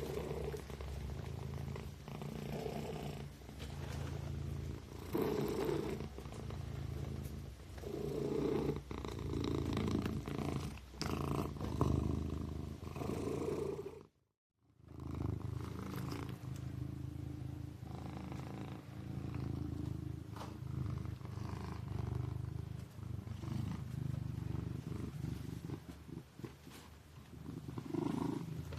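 Sleeping kitten purring steadily, the purr swelling and easing in slow breath cycles. It breaks off into silence for about half a second midway.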